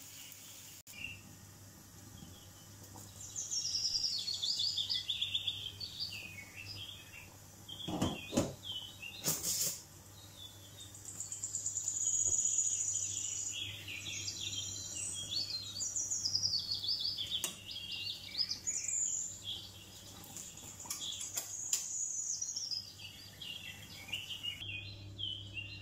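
Small birds chirping and singing, a busy run of quick high notes that slide up and down. A few sharp clicks cut in about eight to nine and a half seconds in.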